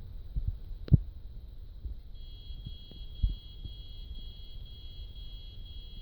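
Huanan X79 Deluxe motherboard's BIOS speaker sounding a run of short high beeps, about two a second, starting about two seconds in. The owner reads this ten-short-beep code as a dead CMOS chip, the reason the board will not start. A sharp knock comes about a second in, and a faint steady high tone runs underneath.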